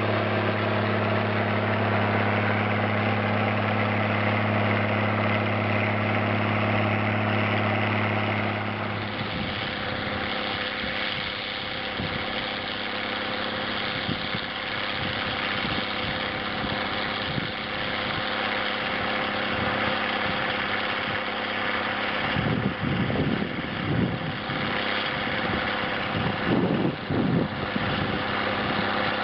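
Zetor 16145 tractor's diesel engine running steadily while it pulls a plough through the soil. About nine seconds in, the steady drone gives way to a rougher, less even sound, with uneven surges near the end.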